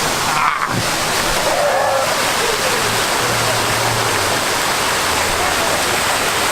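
Steady, loud rush of falling water, like a mini golf course's waterfall feature, with faint voices in the background early on.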